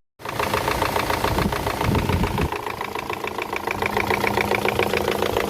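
Chevrolet Orlando's 1.8 F18D engine running with a rapid, even knocking. The engine is throwing code P0011 for an over-advanced intake camshaft.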